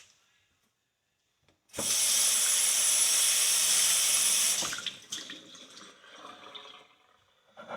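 Water tap running in a steady stream for about three seconds, turned on and off abruptly, followed by faint scattered small sounds.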